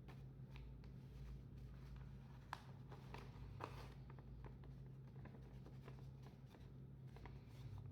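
Near silence: a steady low hum with a few faint, soft rustles and taps of paper being handled and folded, the clearest about two and a half and three and a half seconds in.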